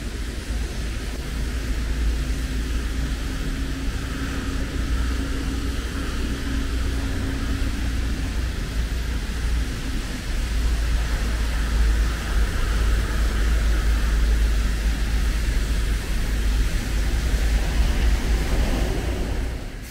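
Steady city traffic noise: a low rumble with a hiss over it, and a faint steady engine hum through roughly the first half.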